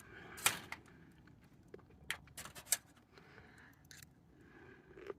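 Scattered faint clicks and taps, with a few sharper ticks, from handling food and utensils.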